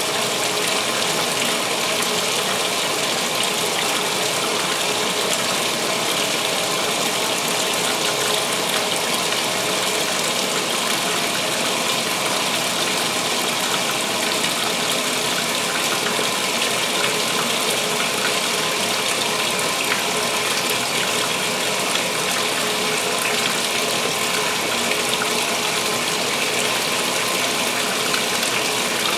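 2016 Speed Queen top-loading washer filling: water gushing steadily into the tub on the pre-wash fill.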